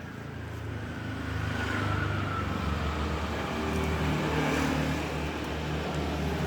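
A motor vehicle engine running, a low steady hum that grows louder over the first two seconds and then holds steady.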